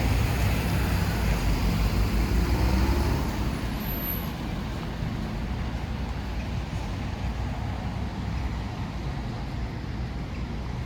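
Road traffic noise: a steady low rumble of vehicles and tyres on the road, easing off about three seconds in.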